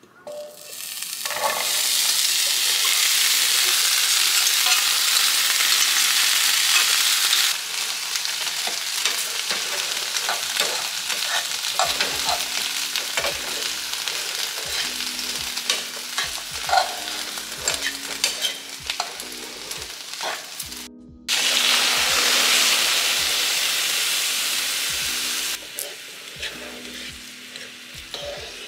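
Diced bell peppers and onions sizzling as they fry in a frying pan, with clicks and scrapes of a spoon stirring them. The sizzle drops sharply about seven seconds in, cuts out for a moment later on and comes back loud, then eases near the end.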